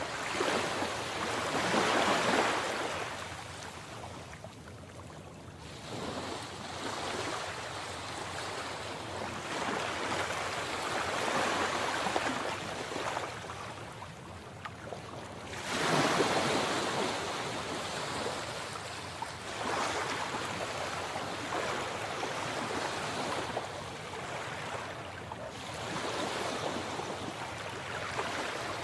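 Sea waves breaking and washing in, swelling and fading in repeated surges, the biggest about two seconds in and just past halfway.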